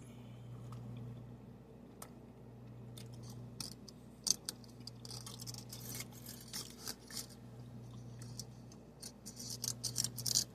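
Faint, irregular crackles and clicks, sparse at first and coming thick and fast near the end, over a steady low hum.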